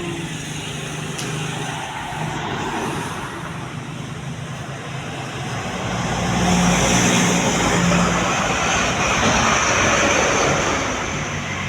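Truck engine and road noise as trucks pass on the road, growing louder about halfway through and easing a little near the end.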